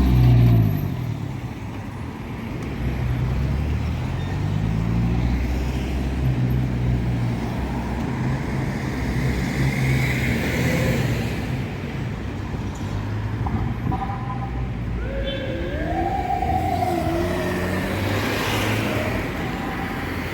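Road traffic: motor vehicle engines running and passing close by, with engine pitch rising and falling. A short wavering tone sounds about three quarters of the way through.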